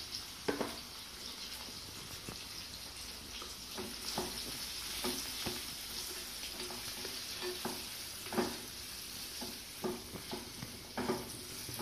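Boiled potato cubes and powdered spices sizzling in hot oil in a pan, stirred with a silicone spatula that scrapes and taps against the pan now and then over a steady sizzle.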